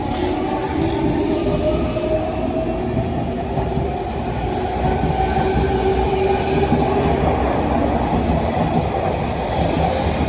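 JR Kyushu 813 series electric train running on the rails: a steady rumble with a few held tones that drift slowly in pitch.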